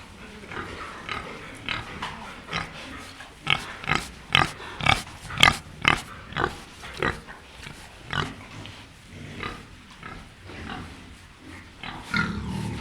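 Pig grunting and squealing in a run of short calls, about two a second at their loudest in the middle.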